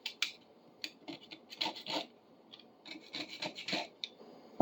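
Hand brush scrubbing a grimy, rusty pipe wrench with baking soda, in irregular bursts of quick scratchy strokes with short pauses between them.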